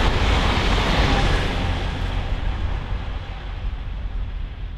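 TER regional multiple-unit train going by at speed and moving away, its rolling noise on the rails fading steadily. The hiss drops away about two seconds in, leaving a low rumble.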